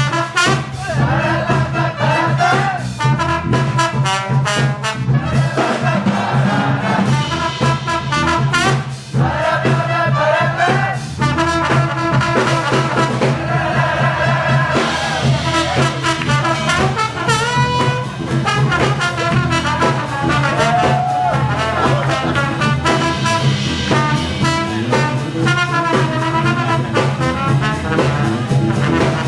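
A big-band jazz orchestra playing, with the trumpet and trombone section carrying the lines over the band.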